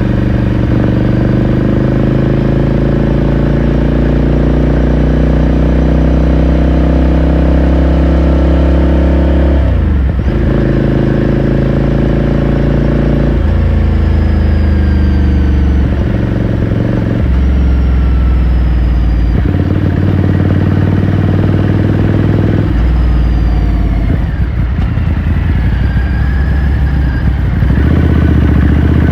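Ducati Scrambler Sixty2's air-cooled L-twin engine and exhaust pulling under way. The pitch drops sharply about a third of the way in, then steps up and down several times through the second half as the engine speed changes.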